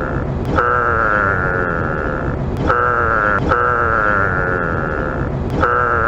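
A long call that falls in pitch, repeated several times with short breaks, each call starting with a click and stopping abruptly. It is the sound given for a giraffe, and the identical repeats mark it as a looped sound effect rather than a live recording.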